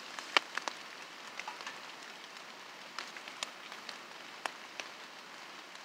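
Rain falling: a steady soft hiss with irregular sharp drops tapping on a hard surface, one louder tap about half a second in.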